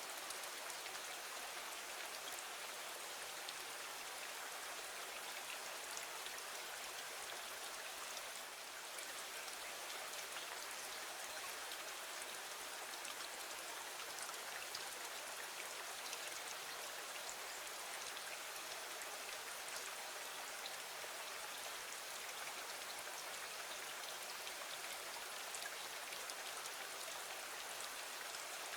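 Steady rain falling against a window: an even hiss with scattered faint drop ticks.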